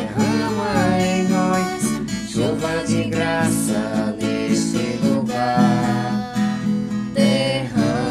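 Strummed acoustic guitar accompanying a singing voice in a Portuguese-language Christian worship song.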